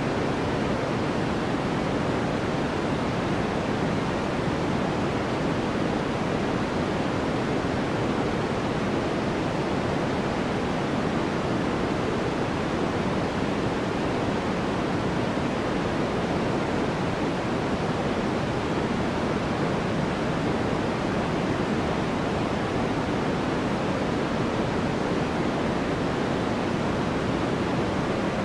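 Generated white noise: a steady, even hiss that does not change, fuller in the low and middle range than in the highs.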